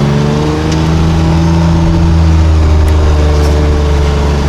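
A vehicle engine running steadily at low speed while moving slowly, its pitch rising a little in the first second and easing back down after about two and a half seconds.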